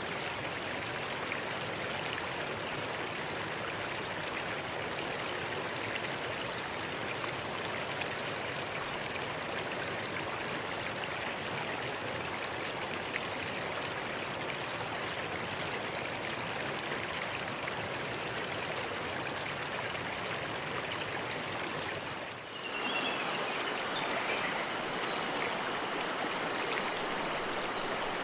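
Clear mountain stream flowing over rocks, a steady rush of water. About three quarters of the way through, the sound cuts to another stretch of running water, with a few short high chirps over it for a couple of seconds.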